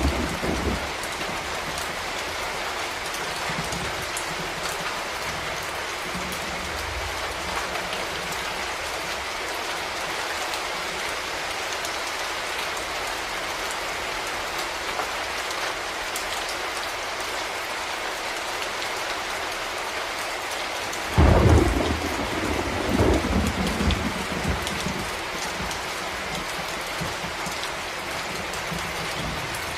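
Steady heavy rain falling, with a loud crack of thunder about two-thirds of the way through that rumbles on for a few seconds.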